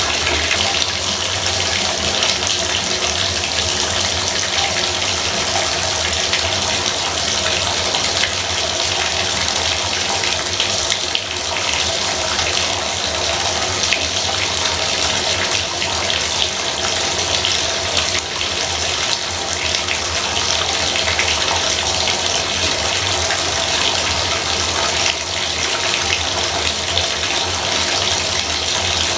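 Bathtub faucet running steadily, a constant stream of water pouring into the tub.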